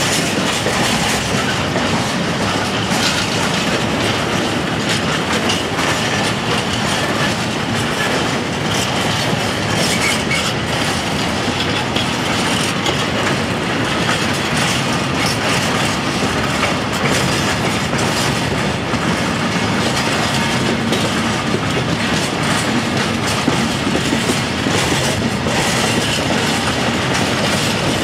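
Freight train of powder tank wagons rolling past close by, a steady rumble of steel wheels on rail with scattered clicks and clatter over the rail joints.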